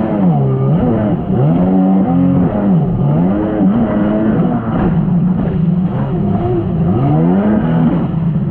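1999 Sea-Doo XPL jet ski's two-stroke engine running hard, its revs rising and falling again and again, about once a second.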